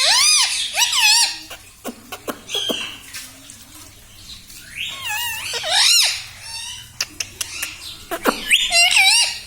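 Pet parrot giving high, warbling calls with bending pitch in three bouts: at the start, around the middle and near the end. Short clicks are scattered between the calls.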